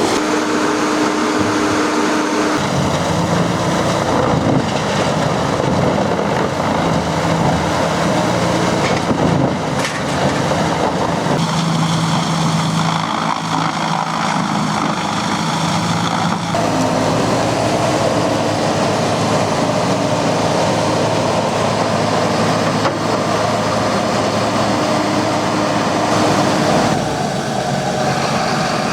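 Heavy wood chipper machinery running loud and steady, with a droning engine. The sound changes abruptly a few times.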